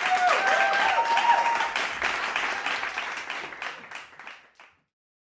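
Crowd applauding, dense clapping with a brief pitched whoop from one voice about half a second to two seconds in; the clapping thins and fades out about three-quarters of the way through.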